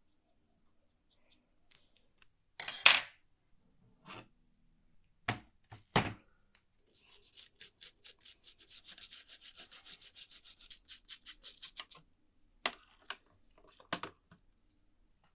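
Hand scrubbing or rubbing of a part: a fast, even run of short strokes, about eight a second for some five seconds. Before it come a loud scrape and a couple of knocks, and after it two more knocks as the part is handled.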